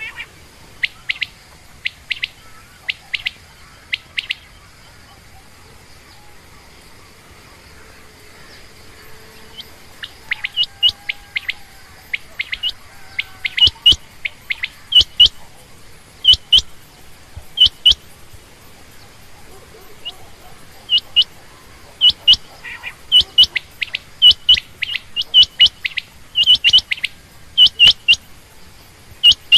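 Quail calling: short, sharp high-pitched notes, mostly in quick pairs and small groups. A few come in the first four seconds, then after a pause of several seconds the calls come thick and steady.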